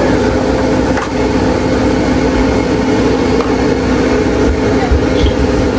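Steady mechanical hum at an even pitch, with a constant whirring noise over it, like a motor or fan running.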